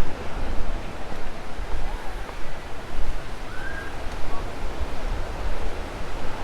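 Waves breaking on the Lake Michigan shore, a steady rushing, with wind buffeting the microphone in uneven low rumbles.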